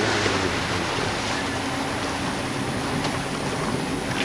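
Ski towboat's engine running steadily under a wash of water and wind noise.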